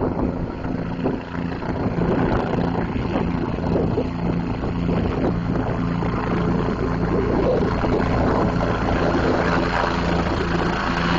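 Air ambulance helicopter approaching to land, its rotor and turbine engine making a loud, steady noise with a pulsing low hum.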